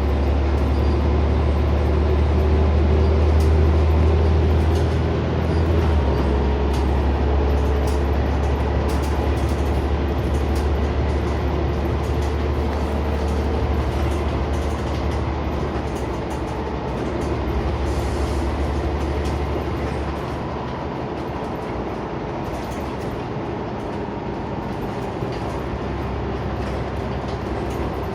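Scania CN94UB Omnicity bus heard from inside the cabin: a deep steady engine drone with road noise and light interior rattles. The drone eases down about 20 seconds in, as the engine comes off load.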